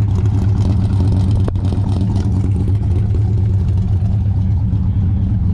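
A car engine idling steadily with a deep, even note, and a single sharp click about one and a half seconds in.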